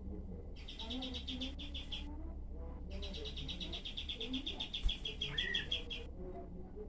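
Kapas tembak bird singing its rapid, tight 'tembakan' trills: two runs of fast dry notes, the second one longer, over softer lower chirps and a brief rising whistle about five seconds in.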